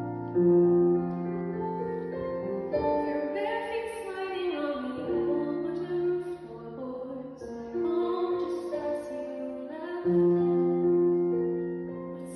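A woman singing a musical-theatre song over piano accompaniment, with held piano chords beneath her sung phrases.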